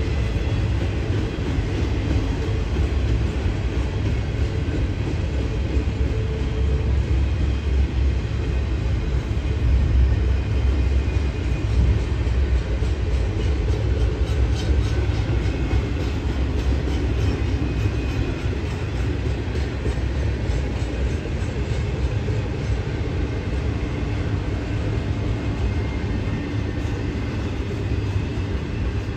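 Double-stack intermodal freight cars rolling past: a steady, heavy rumble of steel wheels on rail.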